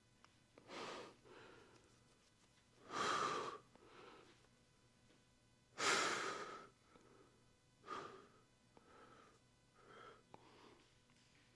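A man breathing out heavily, about six separate breaths, the loudest two about three and six seconds in.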